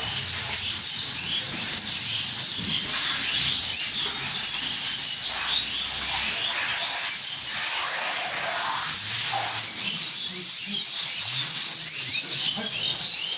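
Small birds chirping over a steady high-pitched hiss.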